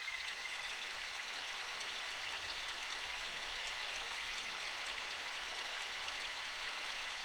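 Steady forest rain: an even hiss of falling rain with faint ticks of individual drops.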